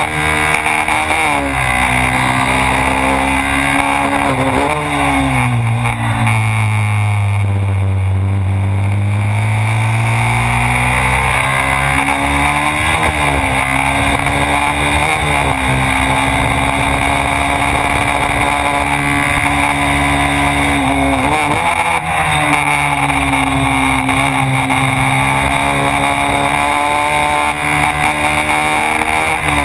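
Honda Twister 250's single-cylinder four-stroke engine heard onboard at speed on a race track, its note rising and falling with throttle and gear changes and dipping lowest about eight seconds in. Wind rushes over the camera throughout.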